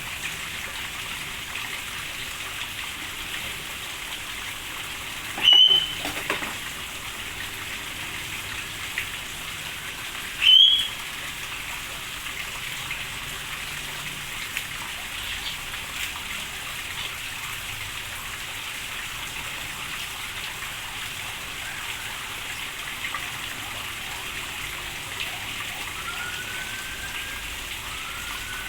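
Steady rain falling. Two loud, short, high bird calls about five and ten seconds in, and a few faint rising bird calls near the end.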